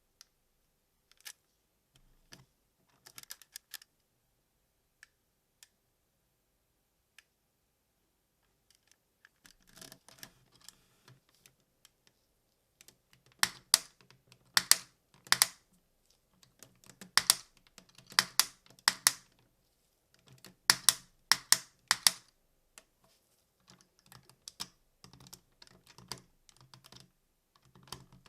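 Plastic parts of a DX Gunbir-Oh transforming robot toy being handled and clicked into place. Scattered light clicks and rattles, then clusters of sharp, loud snaps from about halfway through, easing to lighter clicking near the end.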